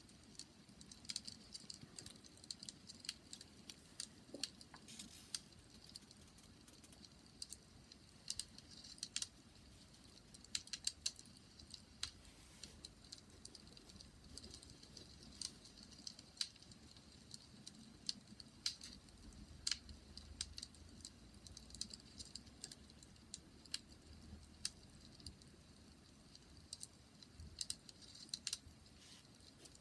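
Wood fire crackling: irregular sharp pops and snaps over a faint low hiss of the flames.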